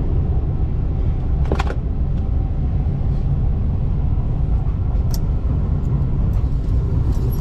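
Passenger train running, a steady low rumble with a few faint clicks and rattles.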